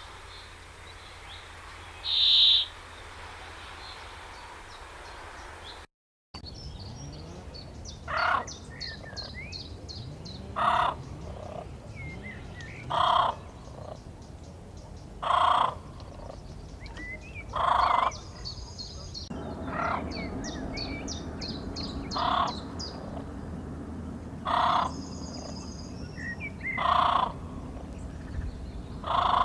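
Birds calling: one call about two seconds in, then, after a brief cut, a loud call repeated about every two and a half seconds, about ten times, over fast, high chirping from smaller birds.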